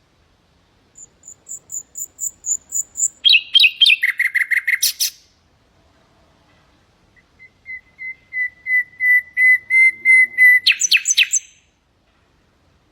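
Common nightingale singing two phrases. Each opens with a run of repeated whistled notes that grow steadily louder and ends in a quick, fast-paced flourish. The second phrase's run is lower and longer.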